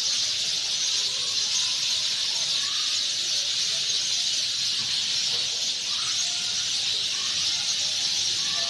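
A dense, continuous chorus of many sparrows chirping together at their evening roost, the calls merging into a steady high-pitched chatter.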